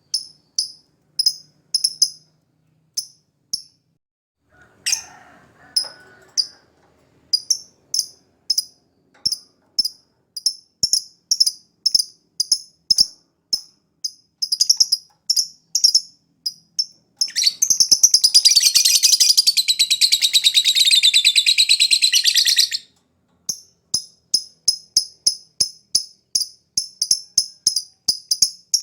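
Lovebird chirping in short, high, repeated tweets about twice a second. Some two-thirds of the way in it breaks into one long, loud rattling trill lasting about five seconds, the lovebird's extended 'ngekek' song, then returns to the steady tweets.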